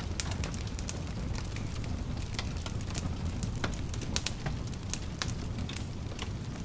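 Fireplace fire crackling: a steady low rumble of flames with frequent irregular sharp pops and snaps.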